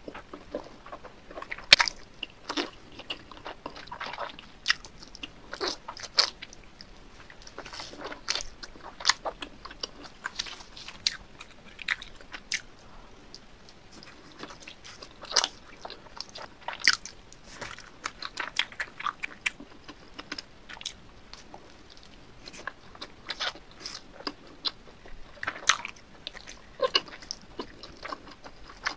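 Close-miked biting and chewing of cheesy pizza: crust crunching with wet mouth clicks, in irregular clusters throughout.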